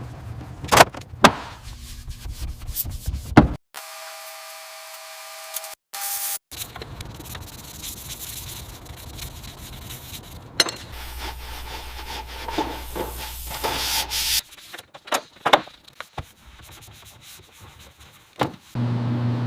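Workshop restoration sounds in short, abruptly cut clips: rubbing and sanding on a surface, several sharp knocks, and a brief steady pitched tone of a few seconds near the start.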